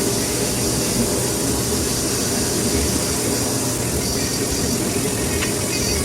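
Steady running machine noise: an even low hum with a hiss over it, holding at one level throughout.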